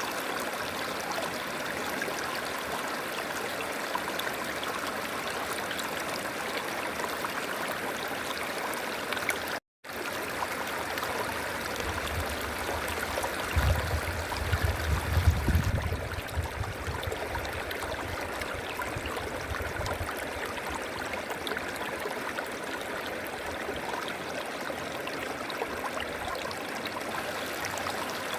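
River water flowing steadily, a constant rushing with a gurgle. The sound drops out for an instant about ten seconds in, and a low rumble swells for a few seconds around halfway and is the loudest part.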